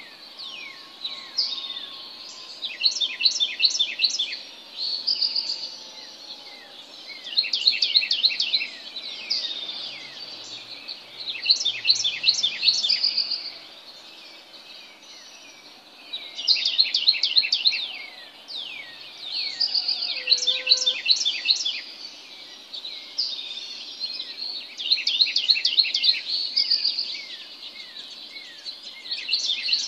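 Songbird singing in the early morning: bouts of about two seconds of rapidly repeated high, clear notes, recurring every few seconds with short pauses between.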